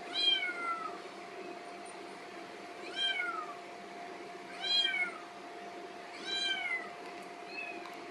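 Kitten meowing, four high calls each falling in pitch, a second or more apart, with a fainter fifth near the end; the owner takes the meowing for hunger.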